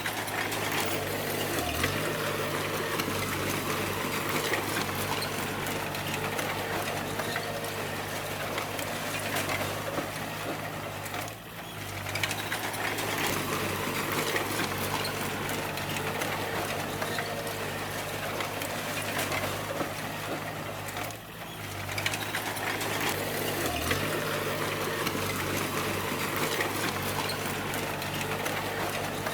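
Crawler bulldozer's diesel engine running steadily with a dense metallic clatter from the machine working. The engine dips briefly twice, about 11 and 21 seconds in.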